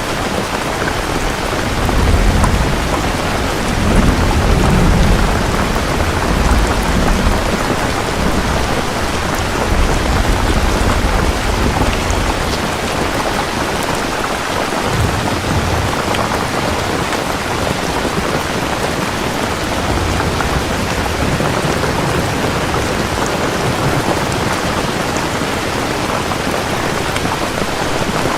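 Heavy steady rain with rolling thunder rumbling low underneath, strongest in the first third.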